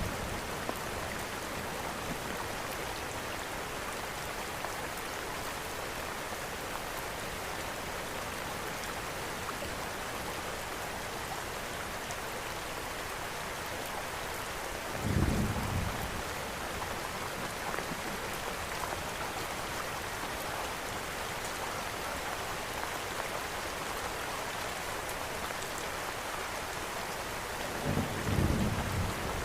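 Steady rain hiss in an ambience mix of rain and a crackling fireplace. A short, low rumble of thunder comes about halfway through and again near the end.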